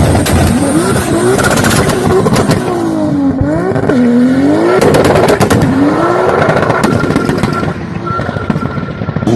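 Supercar engine revved repeatedly, its pitch rising and falling with each rev, with sharp exhaust pops and crackles between revs.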